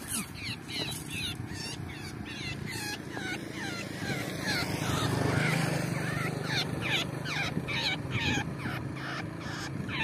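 A bird calling over and over in short, quickly falling chirps, about two or three a second. A low steady hum swells in about halfway through and fades before the end.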